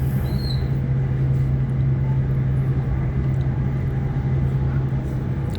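Sydney Trains Waratah electric multiple unit running between stations: a steady low hum over even rolling noise, heard from inside the carriage.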